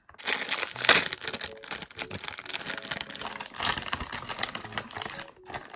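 Plastic crisp packet crinkling and rustling as it is opened, a dense run of quick crackles.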